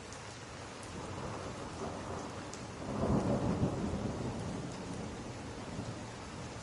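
Steady rain with a low rumble of thunder that builds about a second in, is loudest near the middle and then fades away. A few faint sharp ticks sound over it.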